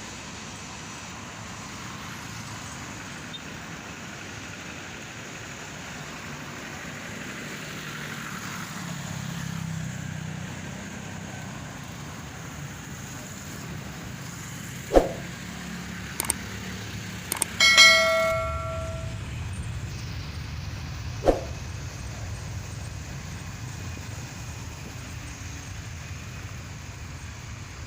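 Steady road-vehicle noise with a slight swell about a third of the way in. It is broken by a few sharp knocks and, about two-thirds of the way in, a short ringing tone lasting about a second and a half.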